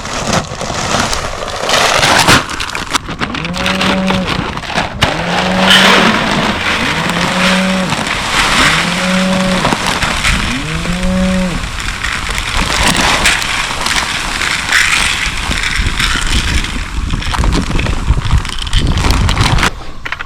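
A vehicle running across rough farm ground with steady loud road and wind noise. From a few seconds in, five evenly spaced pitched tones, each about a second long and about a second and a half apart, sound over it.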